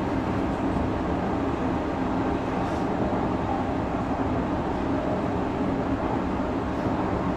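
Odakyu 3000 series electric train with fully enclosed traction motors, heard from inside the car while running at steady speed between stations: a steady rumble of wheels and running gear on the rails with a steady low hum, pitch neither rising nor falling.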